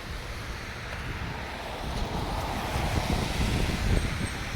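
Wind buffeting the phone's microphone in gusts, a rough, uneven rumble that grows louder about halfway through.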